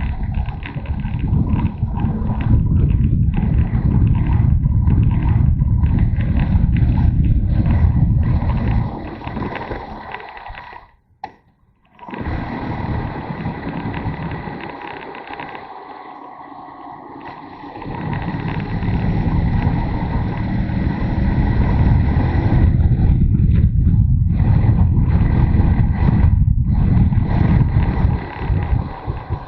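Motorcycle on the move: wind buffeting the camera microphone over the engine's running. It dies down about nine seconds in, cuts out briefly, stays quieter for several seconds as the bike slows, then builds again.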